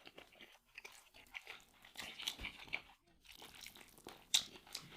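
A person chewing a mouthful of soft habiyah and beef, with faint wet mouth clicks and smacks, and a few sharper clicks near the end.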